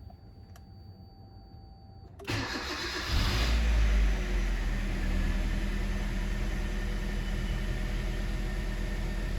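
Kia Forte's freshly rebuilt four-cylinder engine being started for the first time after its overhaul: the starter cranks about two seconds in, the engine catches within a second, flares up briefly, then settles into a steady idle.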